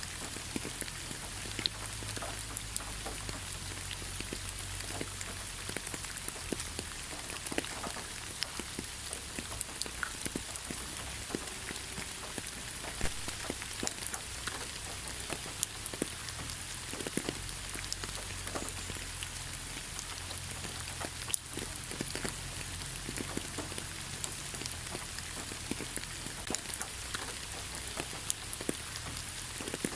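Steady rain falling in a forest, an even hiss with many separate drops tapping close by at irregular moments.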